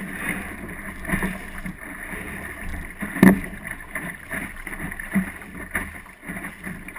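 Water slapping and splashing against the hull of an Optimist sailing dinghy under way, with wind on the microphone. Irregular knocks from the hull, the loudest about three seconds in.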